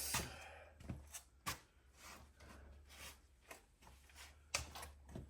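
Scattered light clicks and knocks of hand tools and sockets being handled while searching for a socket, over a faint low steady hum.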